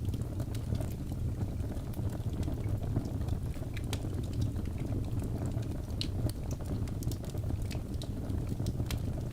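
Wood fire burning in a fireplace: a steady low rumble of the flames with scattered sharp crackles and pops from the logs.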